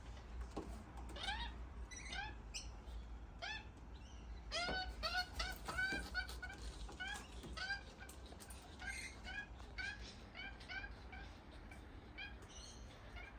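Several wild birds giving short, repeated calls, crowding together most thickly between about four and eight seconds in, then thinning out.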